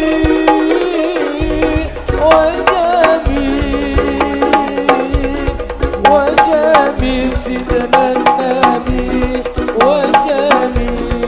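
Marawis music: hand drums and percussion beating in a busy rhythm under a held, wavering melody line.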